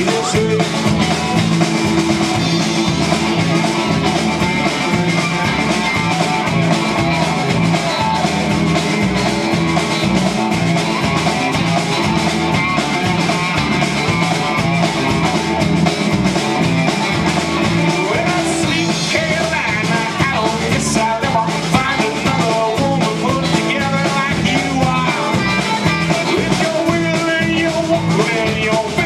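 Live country-rock band playing with guitar and drum kit, a steady driving beat, and singing.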